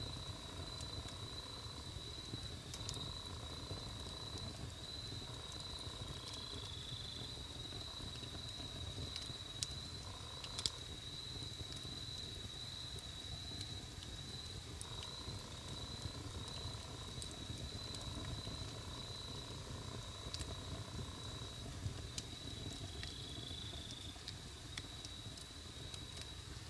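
Wood campfire burning with a low steady rumble and scattered sharp crackles and pops, two of them louder about ten seconds in. A thin, steady high-pitched tone runs under it, with a second, lower tone joining briefly twice.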